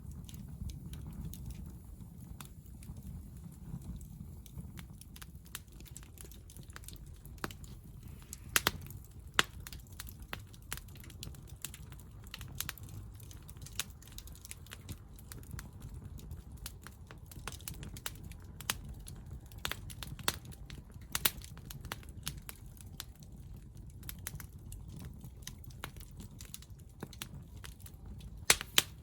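Hardwood fire in a Picogrill crackling, with irregular sharp pops over a steady low rumble; the loudest pops come about nine seconds in and again near the end.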